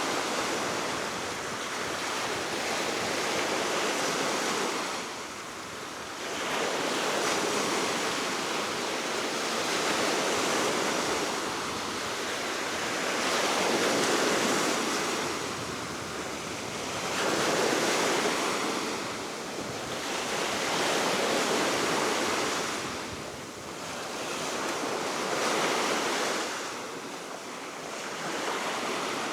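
Baltic Sea waves breaking and washing ashore, swelling and falling away every few seconds, under a steady wind.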